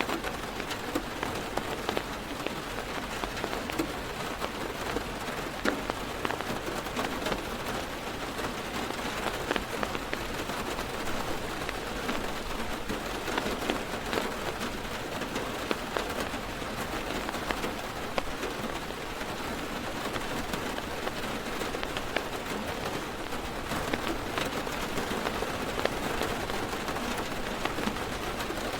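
Heavy rain drumming steadily on a car's roof and windows, heard from inside the car, as a dense patter of individual drop hits.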